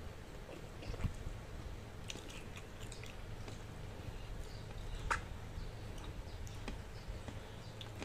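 A person chewing mouthfuls of rice and soy-sauce-braised chicken feet, with scattered wet mouth clicks and smacks; one louder smack about five seconds in.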